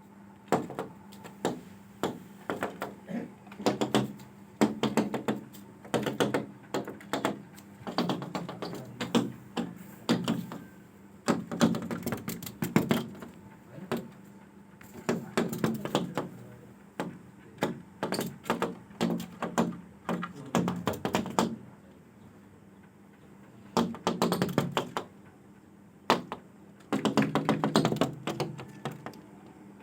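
Rapid, irregular tapping and knocking on a hard surface, in bursts of several quick taps separated by short pauses, over a faint steady low hum.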